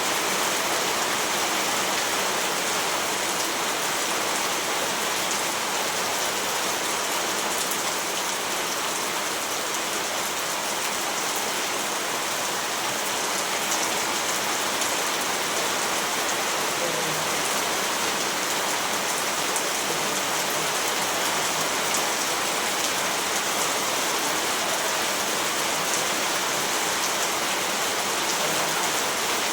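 Steady rainfall, an even hiss with fine pattering of drops on a surface, without thunder.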